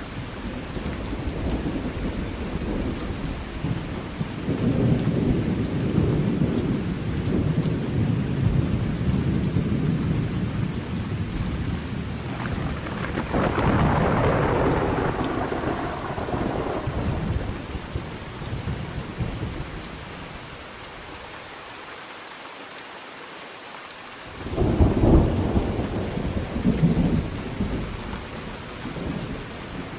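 Thunderstorm: steady rain falling with thunder. Long low rumbles in the first part, a brighter, higher peal a little before the middle, and a sudden loud clap late on.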